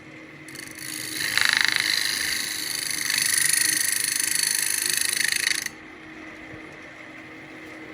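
Power screwdriver running in rapid pulses for about five seconds to back a screw out, then cutting off suddenly.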